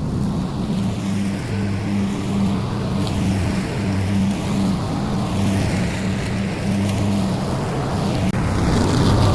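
Small petrol engine of a yard power tool running at a steady speed.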